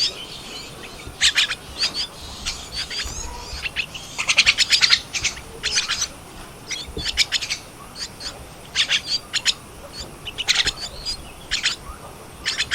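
Javan myna nestlings begging: short, high chirping calls in quick runs of several at a time, repeated again and again.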